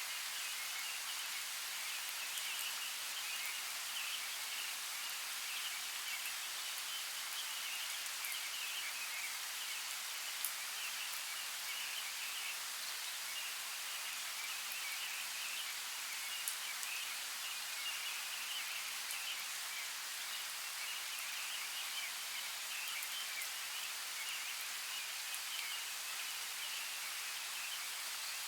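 Steady hiss of a running creek, with a faint high chittering that comes and goes and a couple of sharp ticks.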